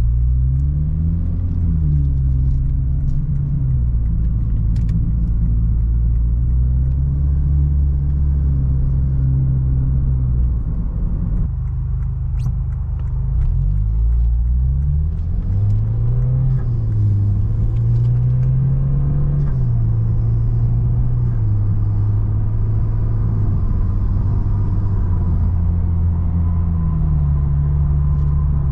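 Lexus IS200t's 2.0-litre turbocharged four-cylinder with an axle-back muffler-delete exhaust, driving: a continuous low drone whose pitch rises and falls with the revs, easing off briefly about eleven seconds in.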